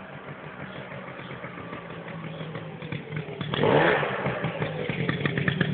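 Big-bore Piaggio Aerox scooter engine running with a steady low note that grows louder, then rising in a sudden loud burst of revving about three and a half seconds in. It stays louder and busier after that.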